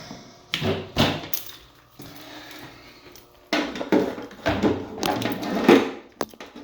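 Handling noise from a Jackery portable power station and its AC charging cable being set up and plugged into a wall outlet: a few sharp knocks and clicks, then a longer run of knocks, rattles and rustling.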